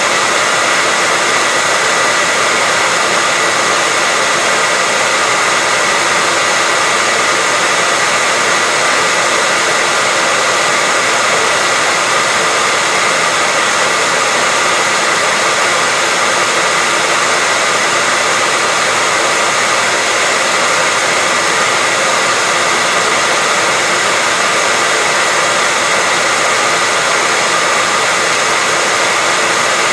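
Hair dryer running steadily: an even rushing hiss of the fan and airflow with a steady high whine, unchanging throughout.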